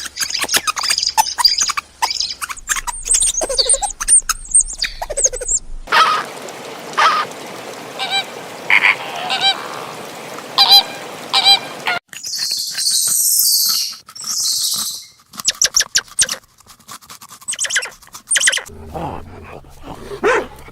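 Birds calling, possibly geese or other poultry, in a run of short clips that change abruptly every few seconds.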